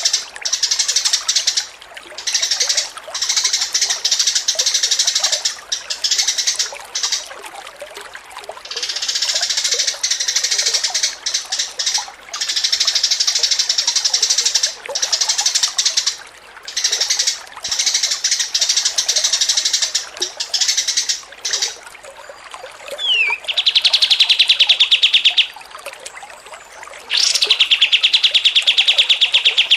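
Songbirds singing nonstop: dense bursts of varied, high-pitched song with short gaps, then two long, very rapid trills of fast-repeated notes in the last third.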